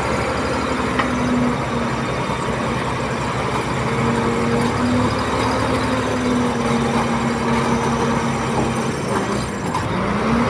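Heavy diesel engine of earthmoving machinery running steadily under load. Its pitch dips about nine seconds in and climbs back up near the end.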